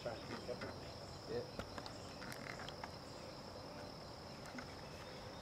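Crickets trilling in a steady, high-pitched drone, with a few faint clicks.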